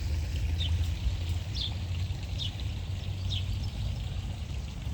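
Small bird chirping about once a second in short, falling notes, over a steady low rumbling noise.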